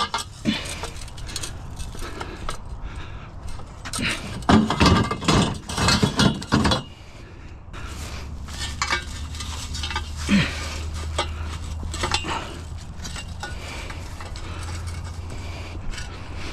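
Scrap metal clattering and clanking as it is loaded, with a cluster of louder bangs about four to seven seconds in. From about halfway through a steady low hum runs underneath, with lighter knocks now and then.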